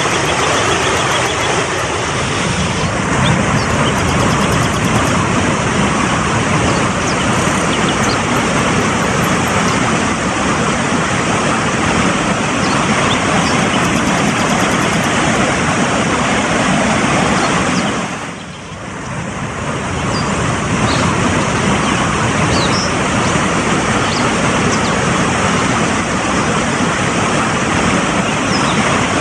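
Fast-flowing mountain stream, water rushing steadily, with a brief dip in loudness about two-thirds of the way through.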